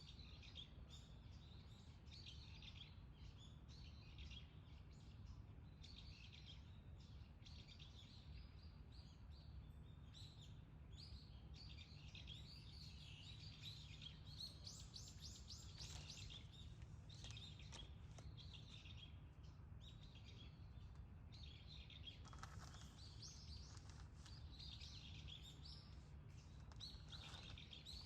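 Faint chirping of small songbirds, many short calls overlapping throughout and busier in the second half, over a steady low background hum.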